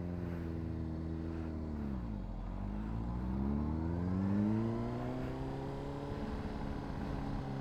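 Honda CBR600RR inline-four sport-bike engine heard from the rider's seat while riding. The engine pitch holds steady, drops at about two seconds in, then climbs again over the next two seconds and levels off.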